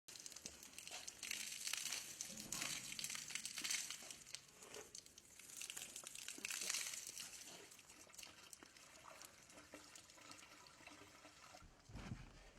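Water splashing and trickling, with crinkling and handling noises that swell twice.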